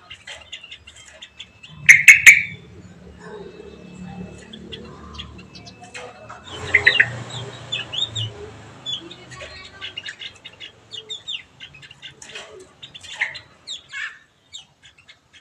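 Small cage songbirds giving many short, high chirps, with a loud burst about two seconds in.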